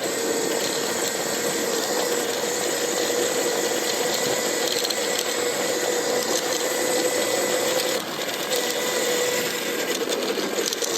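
Lightning Rods electric drive motor of a titanium e-bike whining steadily while riding, over a steady rush of noise; the whine eases briefly about eight seconds in.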